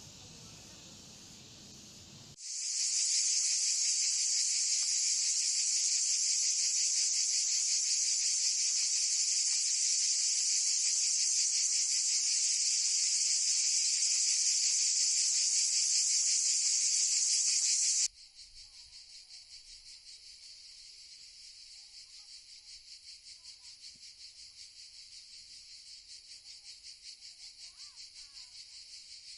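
Insects calling: a loud, steady, high-pitched buzz starts about two seconds in and stops abruptly near eighteen seconds. A quieter high insect trill with a pulsing rhythm follows.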